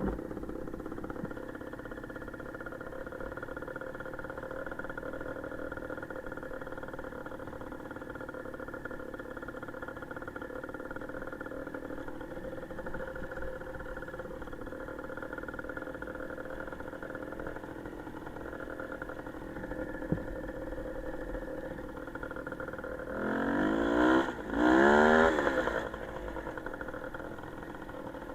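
Small motorcycle engine running steadily, then revved up twice in quick succession near the end, its pitch rising each time.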